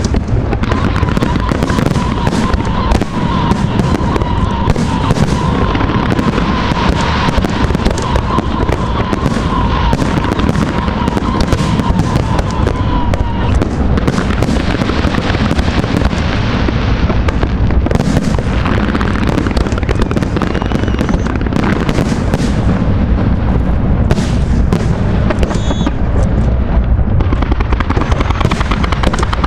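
Fireworks display: a dense, continuous barrage of bangs and crackles from bursting aerial shells over a heavy rumble, with a wavering high tone running through the first half.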